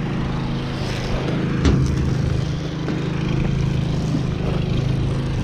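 A motor running steadily with a low, even hum, and one short click about two seconds in.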